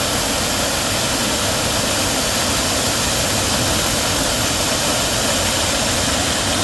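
Valley stream water rushing steadily, a loud even hiss.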